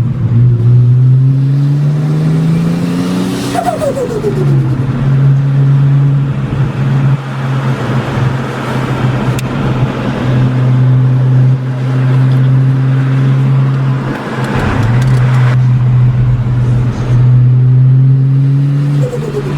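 Engine of a heavily modified turbocharged car under hard acceleration from the driver's seat. The engine note climbs, drops sharply at a gear change about 4 seconds in and again near 15 and 19 seconds, and holds a steady pitch for about ten seconds in between, with a rushing hiss over it.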